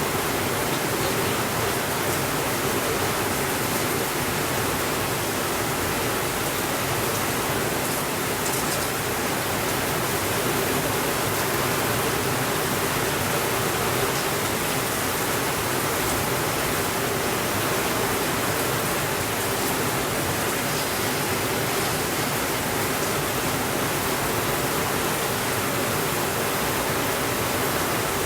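Heavy rain falling on a window in a steady, even hiss.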